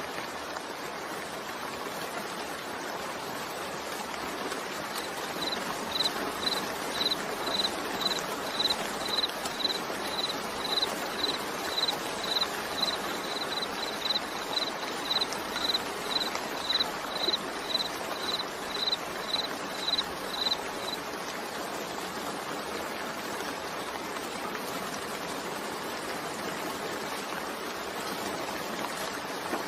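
Steady rain falling, a continuous even hiss. From about five seconds in until about twenty-one seconds, a short high-pitched chirp or beep repeats evenly over it, about twice a second.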